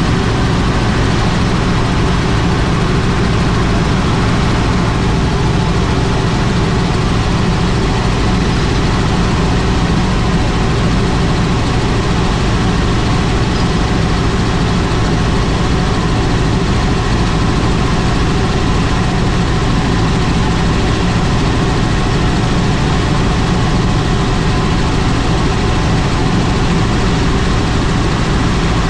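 Helicopter in flight: the steady, loud drone of its engine and rotor, unchanging throughout.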